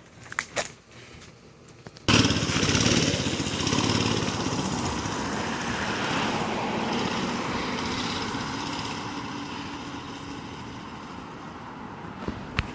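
A few light clicks, then about two seconds in the Baja Warrior mini bike's small single-cylinder engine, modified and with its governor removed, comes in suddenly and runs under throttle. The sound slowly fades as the bike rides off down the street.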